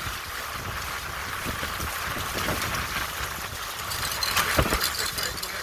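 Water rushing along a sailboat's hull under way, with wind buffeting the microphone; a louder rush about four and a half seconds in.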